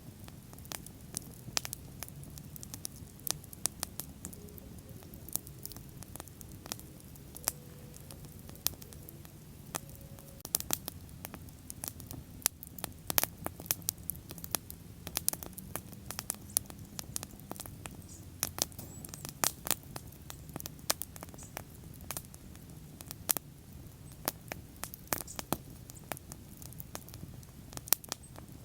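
Wood bonfire crackling: irregular sharp pops and snaps, many a second, over a low steady rumble.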